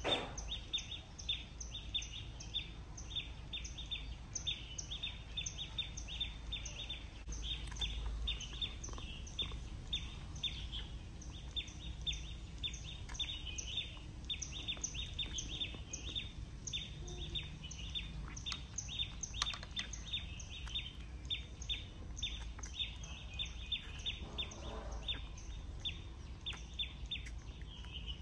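Background birdsong: a bird chirping fast and steadily, about three or four short high chirps a second, over a low background rumble.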